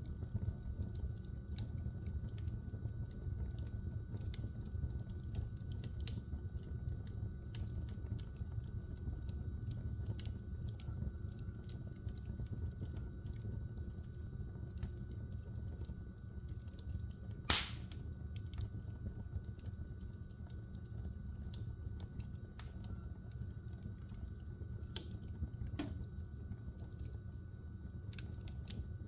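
Wood logs burning in an open fireplace, crackling with many small irregular snaps over a steady low rumble of the flames. One loud pop comes a little past halfway through.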